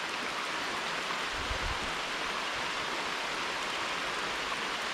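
Steady rain falling, an even hiss that holds at one level without a break.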